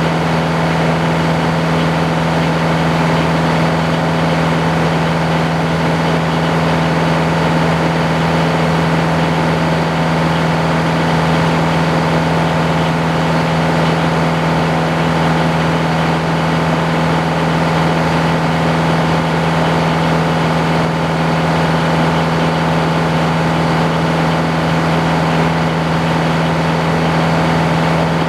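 Sawmill engine running at a steady speed with a constant deep hum, unchanged throughout.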